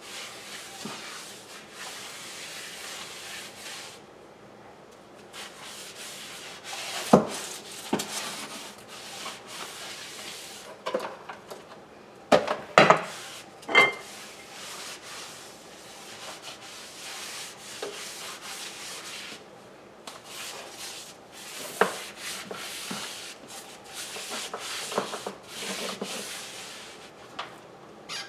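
Dust being swept off a hard floor: a brush rubbing across the floor in continuous scratchy strokes, with a few sharp knocks now and then, a cluster of them around the middle.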